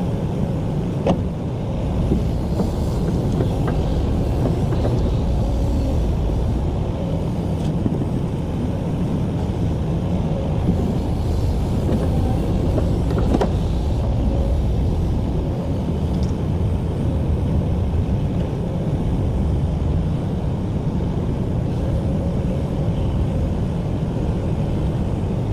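Excavator's diesel engine running steadily with a low drone while it works, with a couple of sharp knocks, about a second in and again near the middle.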